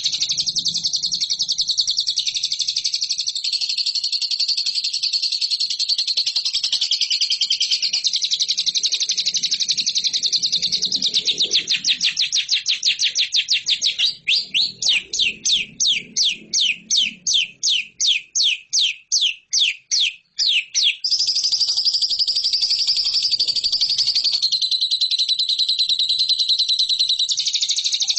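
Lovebird singing a long, continuous high-pitched chattering trill. Midway it breaks into a run of separate sharp chirps, about three a second, for several seconds, then returns to the unbroken trill.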